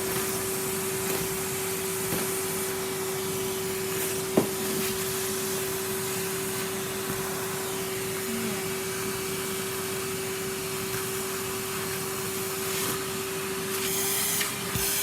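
Numatic Henry cylinder vacuum cleaner running steadily with a constant hum, sucking up wood shavings and dust through a freshly unblocked hose. A single sharp click about four seconds in, and near the end its pitch rises a little as a brighter rushing hiss comes in.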